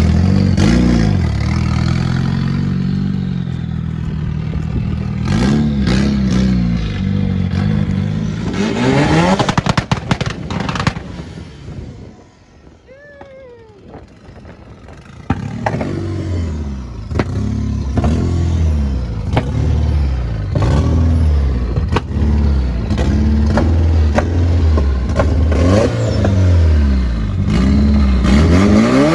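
Car engine running open headers, revved again and again with rising and falling pitch and many sharp cracks from the exhaust. It fades for a few seconds about halfway through, then comes back loud and keeps revving.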